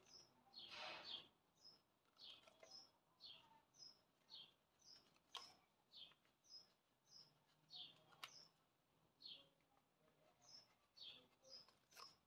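Faint bird chirping: short, high chirps repeating about twice a second. There are also a few soft clicks and a brief rustle about a second in.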